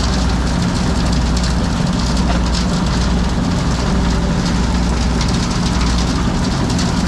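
Heavy drilling rig running steadily: a constant low machine hum under a dense mechanical noise, with no breaks or changes.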